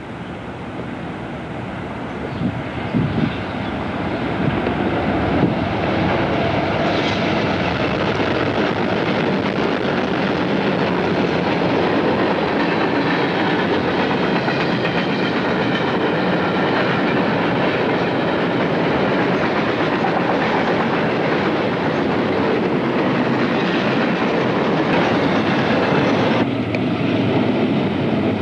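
A train approaching, growing louder over the first five seconds, then passing with a steady rush of wheels on the rails.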